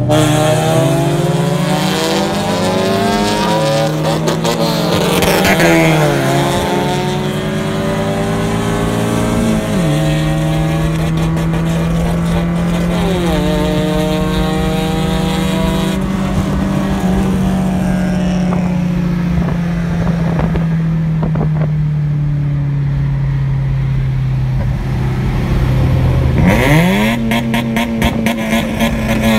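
Car engines at full throttle in a highway race, heard from inside the chasing Tofaş's cabin. Engine pitch climbs and drops sharply at each upshift several times in the first dozen seconds. It then holds a long, high, steady run that slowly sags, and drops and climbs again near the end as Honda Civics run alongside.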